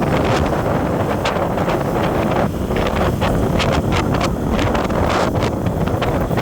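Wind buffeting the microphone over the steady rumble of a vehicle on the move, with many short clicks and knocks throughout.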